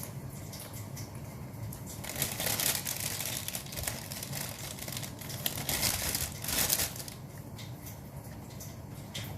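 Food packaging crinkling and rustling as it is handled, in one burst that starts about two seconds in and lasts about four and a half seconds, over a low steady hum.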